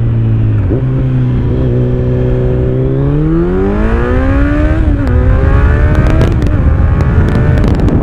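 Kawasaki Z900 inline-four engine through an Akrapovic exhaust with its dB killer fitted, heard on board while riding. It holds steady at low revs, then from about three seconds in climbs under part throttle, drops sharply at an upshift about five seconds in, climbs again, and drops once more near the end.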